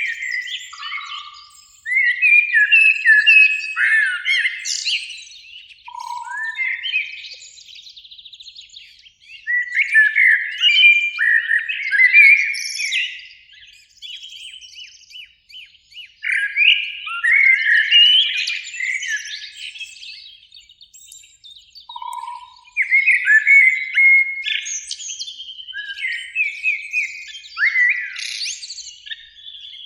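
Eurasian blackbirds singing: phrases of a few seconds each, made of fluted notes that run into higher twittering, separated by short pauses.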